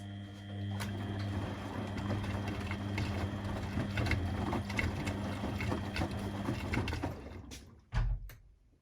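Laundry machine's motor humming as the drum turns, with laundry and parts rattling; it stops about seven seconds in, followed by a single low thump.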